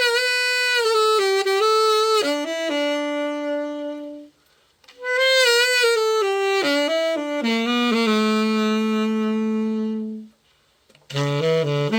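Selmer Super Action tenor saxophone played after its full overhaul, in three short melodic phrases that each settle on a long held low note, with a brief silence between them.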